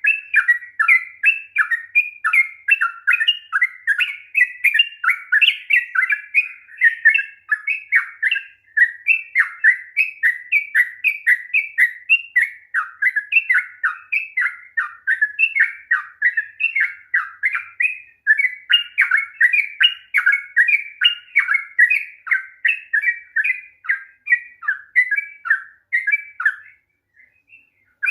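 Sooty-headed bulbul singing a long, fast, unbroken run of chattering, sweeping notes, pausing only briefly and stopping just before the end.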